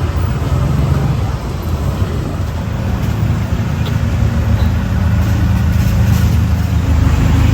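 A motor vehicle's engine running steadily: a low rumble that grows slightly louder toward the end, with street noise above it.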